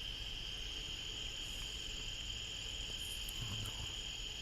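Steady chorus of insects: a continuous high-pitched trilling that holds unchanged throughout.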